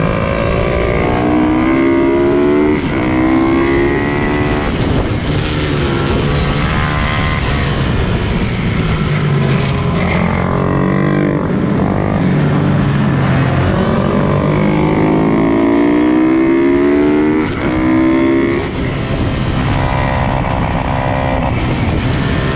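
Several pit bike engines racing, their pitch climbing and dropping repeatedly as the riders accelerate, shift and back off for corners.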